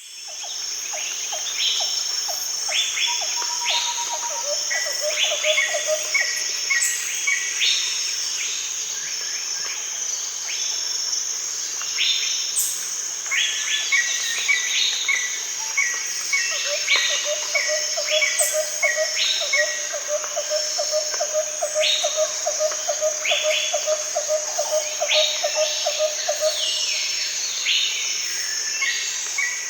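Daytime rainforest ambience: a steady high-pitched insect buzz with many birds calling over it, some in quick runs of repeated notes. A lower rapid trill runs for about ten seconds in the second half. The sound rises in from silence at the very start.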